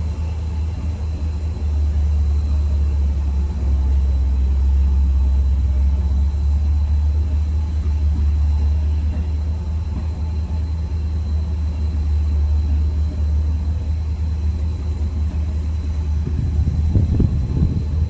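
Car engine idling on a cold start, after a few days sitting: a steady low rumble. Near the end it is joined by a few uneven, louder pulses.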